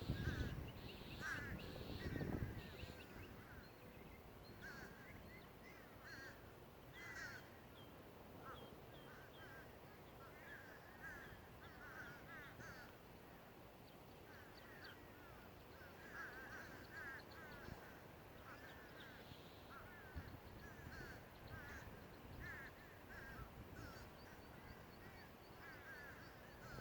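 Crows cawing over and over, several birds, faint and continuous. A low rumble is heard in the first two seconds or so.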